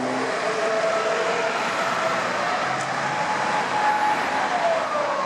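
Emergency vehicle siren wailing in a slow rise and fall: one pitch holds, climbs about two seconds in, then drops near the end, over steady traffic noise.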